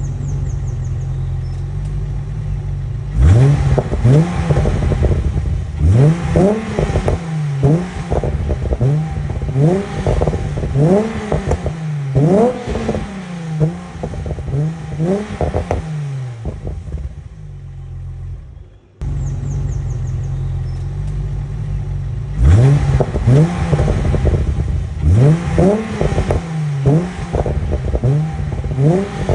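Volkswagen Corrado's VR6 engine, breathing through S2 headers, a 42DD high-flow cat and the stock exhaust, idling and then blipped again and again, each rev rising and falling back to idle. About two-thirds of the way through it fades and cuts off abruptly, then idles again before a second run of revs.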